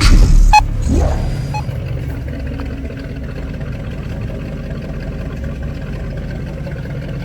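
Car running on the road, heard from inside the cabin as a steady low rumble of engine and road noise. In the first second and a half it is louder, with a couple of short beeps.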